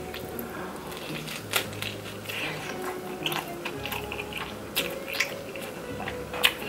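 Close-miked biting and chewing of a slice of homemade Chicago deep-dish pizza, with the crisp baked crust crunching in a few sharp crackles, the loudest near the end.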